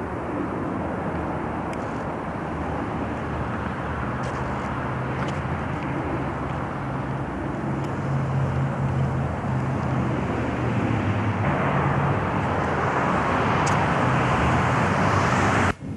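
Motor vehicle running with steady engine hum and road noise, growing slightly louder, then cut off abruptly near the end.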